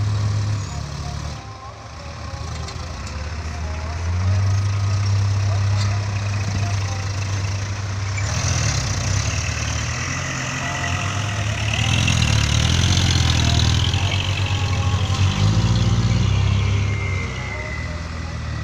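Dump truck's diesel engine running and revving up and down. Its note dips about two seconds in and comes back a couple of seconds later.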